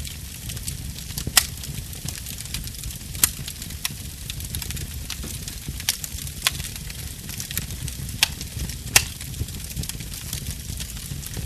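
Wood fire burning: a steady low rush of flame under a faint hiss, with sharp crackles and pops from the burning wood scattered throughout, the loudest pops about a second and a half in and near nine seconds.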